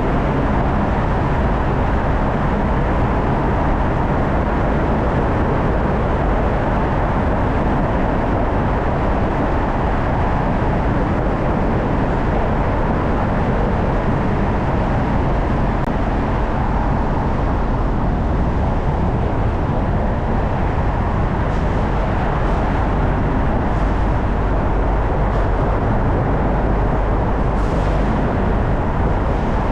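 A car driving at a steady speed: an even rush of road and tyre noise over a low hum, unchanging in level.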